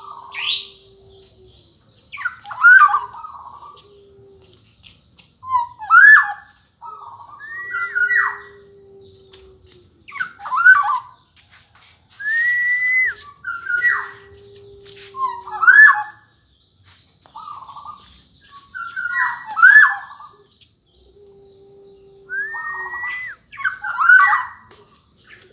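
Black-naped oriole (kepodang emas) singing: loud, fluty whistled phrases with sliding pitch, repeated every three to four seconds with short pauses between.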